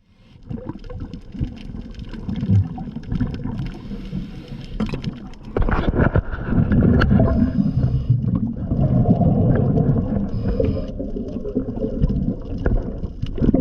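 Underwater gurgling and bubbling water noise, growing louder about five and a half seconds in.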